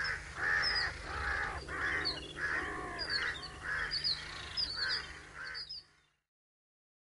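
Birds calling: a run of harsh, repeated caws, about two a second, with thinner higher chirps over them. The sound cuts off suddenly about six seconds in.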